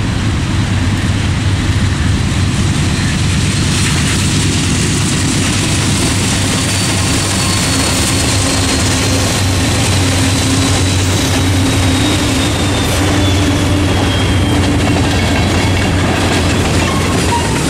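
A freight train passing close by. Several diesel locomotives go past with a steady low engine drone, followed by freight cars rolling by on the rails.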